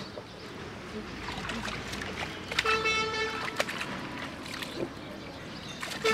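A horn sounds once near the middle, a single steady toot about a second long, over outdoor background noise with scattered clicks.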